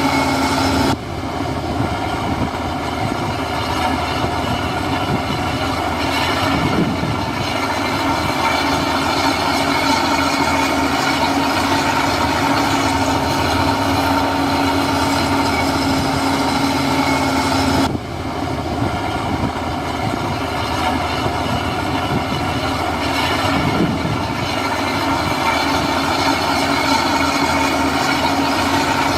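Heavy diesel engine of earthmoving machinery running steadily under load, with a steady drone and whine. The sound changes abruptly twice, about a second in and again about two-thirds of the way through.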